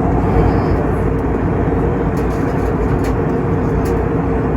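Steady cabin noise of an Airbus A321neo airliner in flight: a constant drone of engines and airflow with a steady hum running through it.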